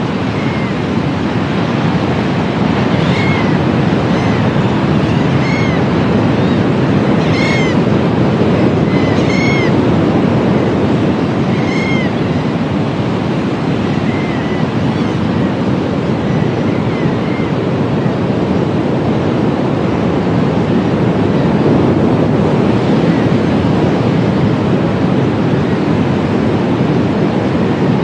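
Gulls calling over steady surf: a series of short, arching cries, most of them and the loudest between about three and twelve seconds in, with fainter ones after.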